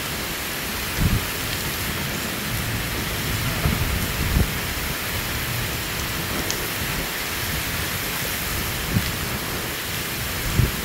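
Torrential wind-driven rain in a violent thunderstorm, a steady loud hiss, with a few short low thumps scattered through it.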